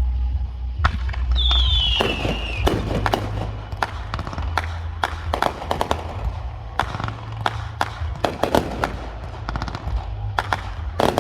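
Fireworks going off in a rapid, irregular string of sharp bangs and crackling pops, with a falling whistle about a second and a half in.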